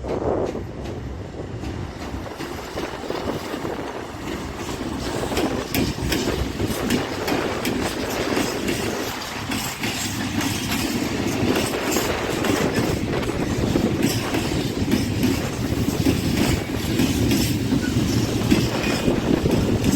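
Freight train passing close by, its wagons rolling and their wheels clicking over the rail joints in a continuous run of clatter.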